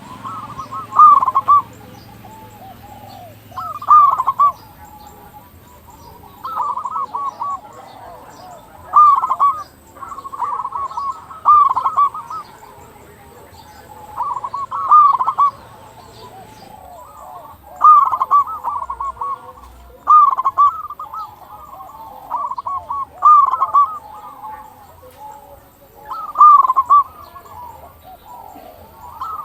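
Zebra dove (perkutut) of the local strain cooing in full voice, repeating its rolling phrase about every two to three seconds. Fainter calls of other birds sound behind it.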